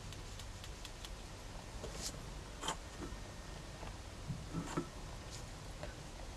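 Faint taps and clicks of hand craft work on a desk, a few sharper ticks about two and a half seconds in and again near five seconds, over a steady low hum.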